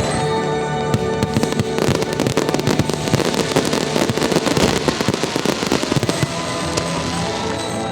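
Fireworks crackling and popping in a dense run of rapid reports over a music soundtrack; the crackle thickens about two seconds in and thins out again near the end.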